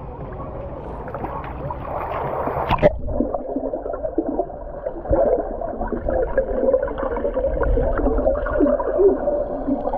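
Water sounds at the surface, then about three seconds in the microphone goes under and the sound turns muffled: underwater bubbling and gurgling from swimmers diving.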